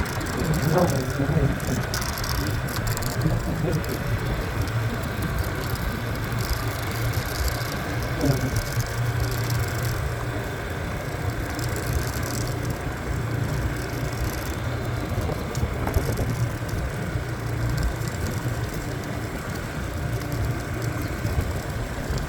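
Motorbike engine running at a steady, even pitch while riding along, with tyre and wind noise.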